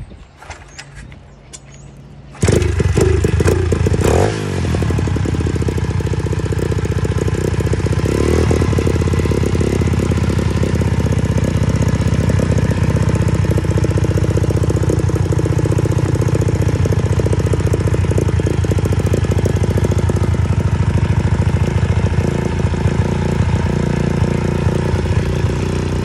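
125cc dirt bike engine starting up about two and a half seconds in, after it had refused to start, with a brief rev, then running steadily at a fast idle.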